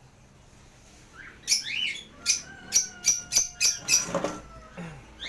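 Small caged parrots chirping: after a quiet start, a quick run of short, sharp calls comes in about a second and a half in. A brief rustling noise follows near the end.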